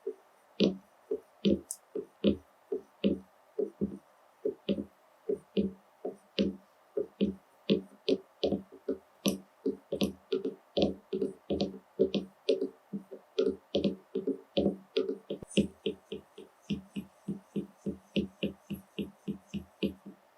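Makeup being dabbed onto a watermelon's rind: a long run of soft, dull taps, about two or three a second, each with a faint click.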